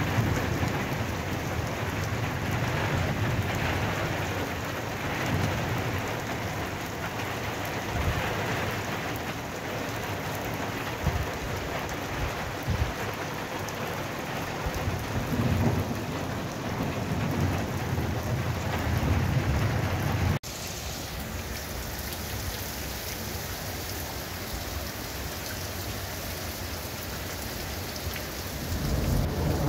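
Heavy rain pouring onto flat concrete rooftops, a steady hiss with deep swelling rumbles underneath. About two-thirds of the way in the sound breaks off abruptly and carries on as a thinner, steadier rain hiss.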